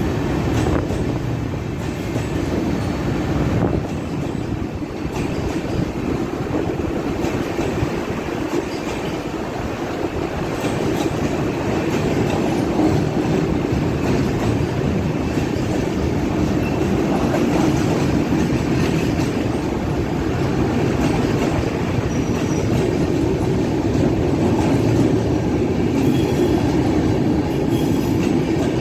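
Express passenger train's coaches rolling past, a steady rumble with wheels clicking over the rail joints.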